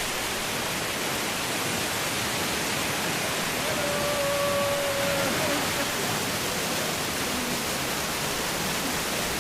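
Waterfall, a steady rush of falling water. A brief pitched tone sounds over it about four seconds in.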